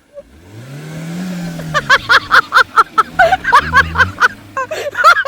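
A vehicle engine revs up and eases back down over the first two seconds, then a loud, rapid run of short pitched notes, about five a second, takes over.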